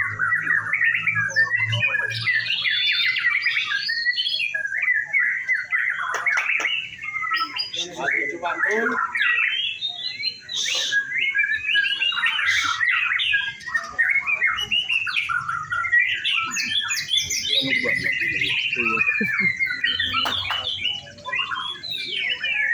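White-rumped shamas (murai batu) singing without pause, in rapid, varied whistled phrases and trills that overlap one another.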